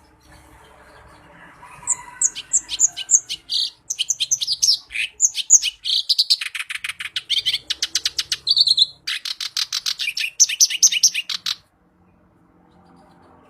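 Reed warbler (kerak basi) singing a loud, varied song of rapid repeated chattering notes mixed with short high down-slurred whistles. It starts about two seconds in and stops abruptly near the end.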